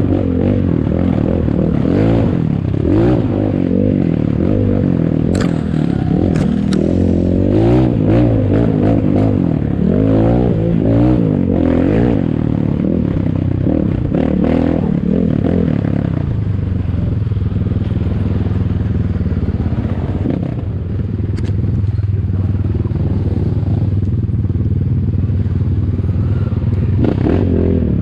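Ataki DR 250 enduro motorcycle engine running under load off-road, its pitch rising and falling with the throttle through the first half and running steadier later. Scattered knocks and clatter come from the bike over rough ground.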